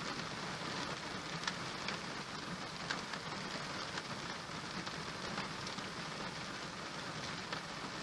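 Steady rain falling on a surface, an even hiss with scattered closer drops ticking now and then.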